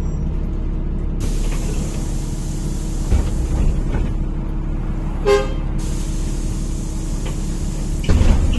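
NefAZ-5299 city bus engine running at a stop, heard from inside the cabin. A long hiss of compressed air starts about a second in and stops near the middle, with a short horn toot just before it ends. Near the end the engine picks up.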